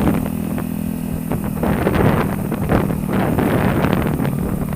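A motor vehicle's engine running steadily, with wind noise on the microphone.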